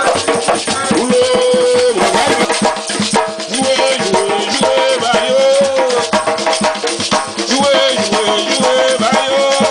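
Traditional Creole folk song: sung voices over a steady rhythm from a hand drum and a rattling shaker.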